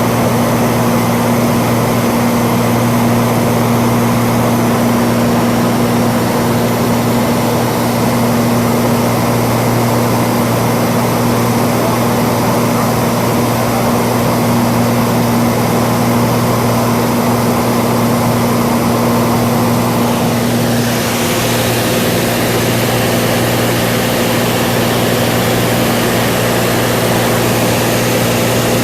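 Cessna 182 engine and propeller droning steadily in cruise, a deep even hum with a wide airflow hiss over it. About 21 seconds in, the hiss turns brighter and a higher steady tone joins in.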